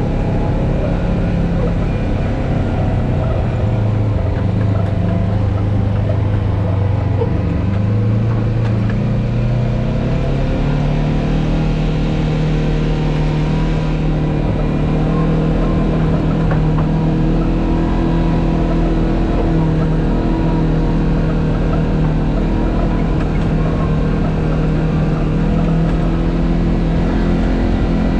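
Off-road vehicle engine running under load and revving, its pitch rising about ten seconds in and holding higher, with a steady low rumble underneath.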